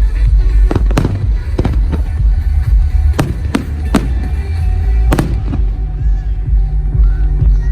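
Aerial fireworks bursting in a rapid, irregular run of about ten sharp bangs over music. The bangs stop about five seconds in.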